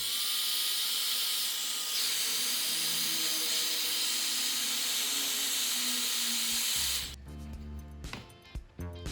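A steady, high hiss that cuts off suddenly about seven seconds in, giving way to background music.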